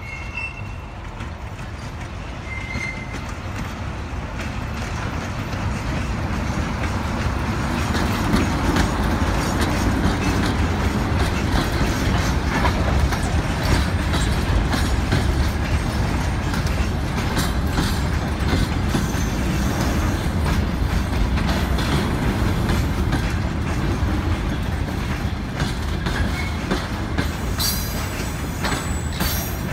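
A train passing on the rails: the rumble of wheels and wagons grows louder over the first eight seconds or so, then runs steadily, with clicking over the rail joints and sharper high-pitched wheel noise near the end.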